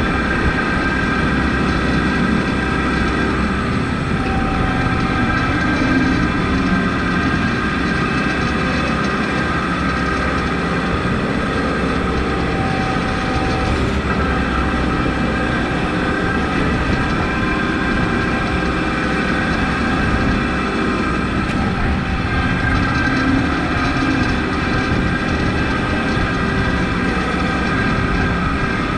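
Kubota MX5200 tractor's four-cylinder diesel engine running steadily while plowing snow, a continuous rumbling drone with a steady engine hum.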